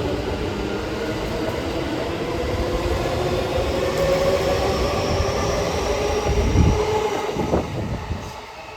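E231 series 900 subseries electric commuter train pulling out of a station: a rumble of wheels on rail under a faint rising whine from the traction motors. It fades off near the end as the train moves away.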